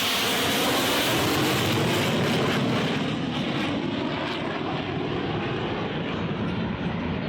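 Aircraft engine noise of a low pass: loud at first, then the high hiss thins out about three seconds in as the aircraft moves away.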